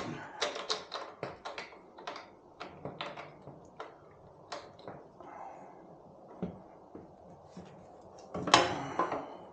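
Irregular clicks and knocks of hand tools and metal parts being handled while working on a motorcycle, a few per second, with a louder clatter near the end.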